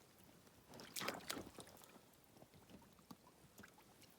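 Near silence, broken about a second in by a brief splash of water, with a few faint taps after it.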